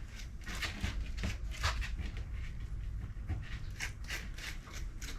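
A grooming brush worked through a cavoodle puppy's coat in short, irregular scratchy strokes, over a low steady hum.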